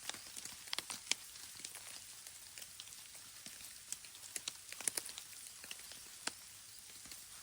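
Raindrops falling on a surface: sparse, irregular light ticks over a faint steady hiss.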